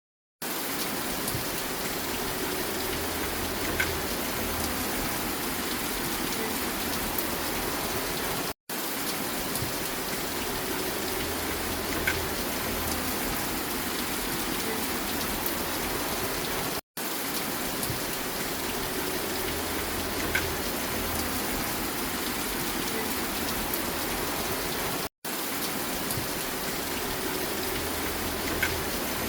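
Steady rain falling, a short recording looped about every eight seconds, with a brief cut to silence at each loop point.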